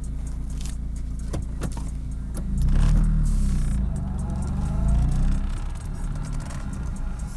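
Car engine running with a steady low drone. About two and a half seconds in it gets louder and its pitch rises as the car accelerates, then it eases off. Small clicks and rattles sound now and then.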